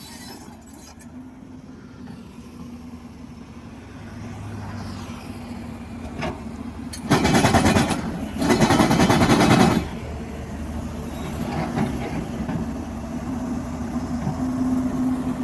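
Heavy diesel engine running steadily, with two loud harsh bursts, each a second or more long, about seven and eight and a half seconds in.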